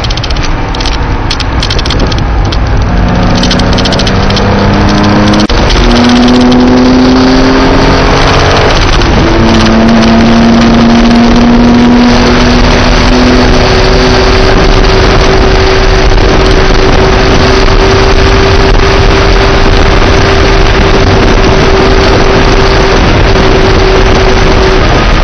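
Porsche engine accelerating hard through the gears, heard inside the cabin with heavy wind and road noise. The pitch climbs and drops at two upshifts, then holds a long, steady high note at full throttle that falls away near the end as the driver lifts.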